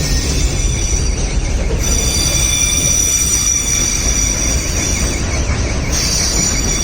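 Loaded freight wagons rolling past, steel wheels squealing in several high steady tones over a deep continuous rumble; the squeal tones shift about two seconds in and again near the end.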